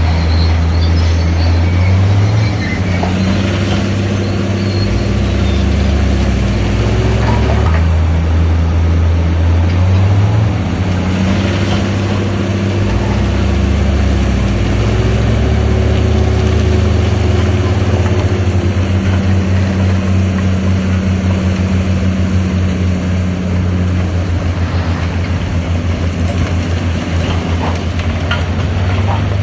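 Heavy diesel engine of an earthmoving machine running hard under load, its pitch rising and falling a few times as the revs change.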